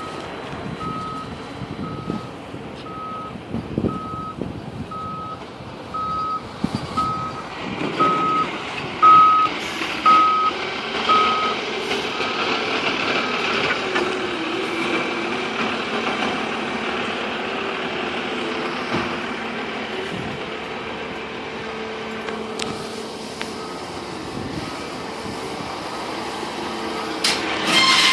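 Fire engine's reversing alarm beeping about once a second as the truck backs up, stopping about eleven seconds in, over the truck's running engine. After the beeping stops the engine runs on steadily, with a few loud knocks midway and a louder burst right at the end.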